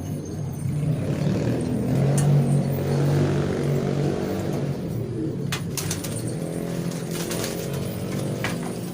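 A motor vehicle's engine passing, growing louder over the first couple of seconds and then slowly fading, with domestic pigeons cooing. A few sharp clicks come in the second half.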